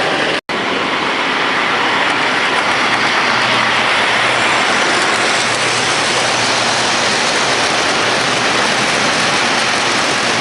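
Model train running on its layout track: a steady, dense rumble, broken by a brief dropout about half a second in.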